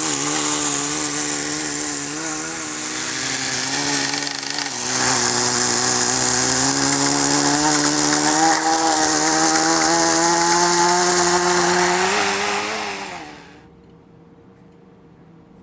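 Small nitro glow engine of a Kyosho Nitro Blizzard RC snowcat running at a high, buzzing pitch that wavers and creeps up, then drops and stops about 13 seconds in.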